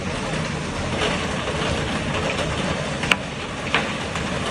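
Water and hail being forced up through a toilet by storm pressure in a blocked drain, making a steady rushing noise with a few sharp clicks of ice.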